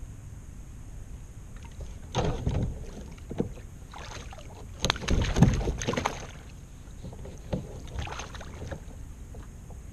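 Water splashing and knocking around a fishing kayak in several uneven bursts, the loudest about five seconds in.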